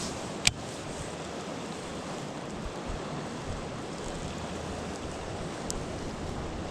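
Steady rushing wind and water noise, with one sharp click about half a second in.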